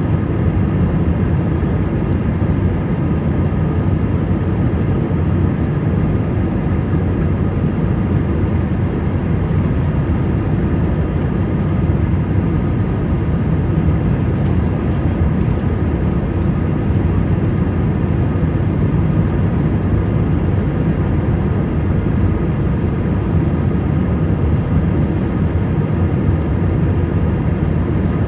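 Airbus A320 engines and airflow: a steady, even drone with a few faint steady tones riding on it.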